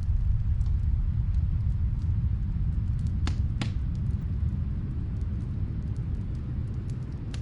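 Muffled snowstorm wind making a steady low rumble, with the faint scattered crackle of a wood fire in another room and two louder pops about halfway through.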